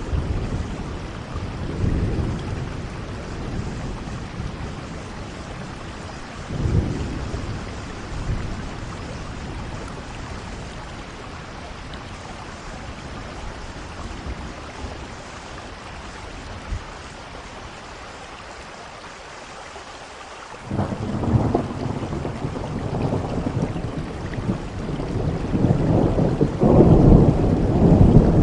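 Steady rainfall with thunder: a few low rumbles in the first half, then a louder roll of thunder breaks in about two-thirds of the way through and grows toward the end.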